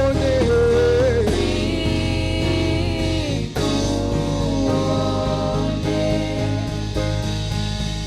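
Live gospel praise music: a sung note held over from the line before and long sustained vocal notes over steady bass, keyboard and guitar accompaniment.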